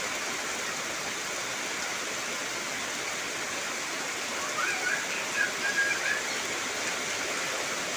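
Heavy rain falling steadily, a constant rushing hiss. About halfway through, a few brief high chirps rise briefly above the rain.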